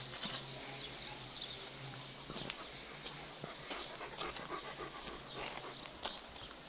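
A dog making soft sounds, with scattered light clicks and scuffs over a steady hiss.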